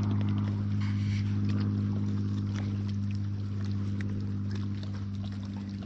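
Electric ballast pump running with a steady hum, pumping water into a transom ballast bag that is nearly full, its air vent already shut.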